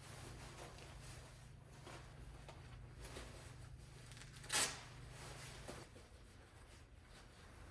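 Faint rustling of winter clothing being put on, with one brief sharp noise about halfway through, over a low steady hum that stops about two-thirds of the way in.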